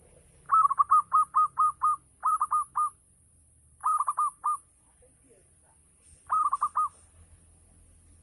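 Zebra dove (perkutut) cooing in its rapid 'ngayer' style. Four runs of short, quick notes: the first of about seven, then three shorter runs of four or five.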